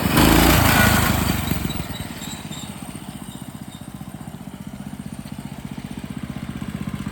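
Coleman CT200U-EX mini bike's single-cylinder four-stroke engine, loud under throttle at first, then dropping after about two seconds to a slow, even idle.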